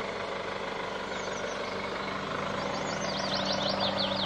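Chevrolet Captiva SUV engine idling with a steady hum, while birds chirp in quick high calls that become busier in the second half.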